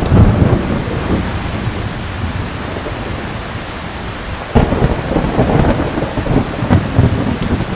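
Thunder rumbling over steady heavy rain: a rolling peal dies away over the first couple of seconds, then a fresh clap breaks about halfway through and rumbles on until near the end.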